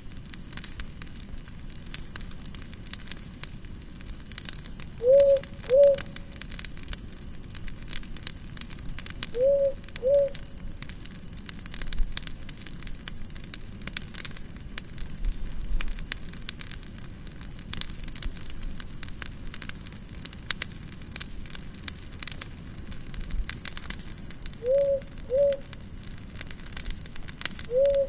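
Campfire crackling with scattered sharp pops, while crickets chirp in short high trains and a low two-note call repeats several times, a pair every few seconds.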